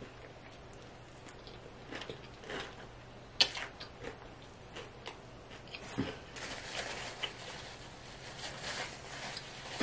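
Crisp fried chicken wings being bitten and chewed: small crackling crunches and wet chewing, with a papery napkin rustle near the end.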